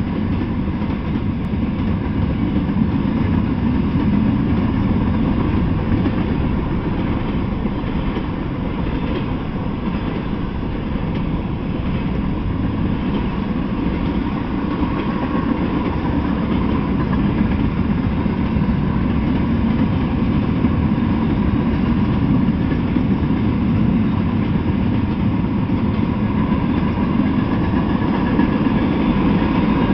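Freight train of coil steel cars and tank cars rolling past: a steady low rumble of steel wheels on the rails, growing slightly louder near the end.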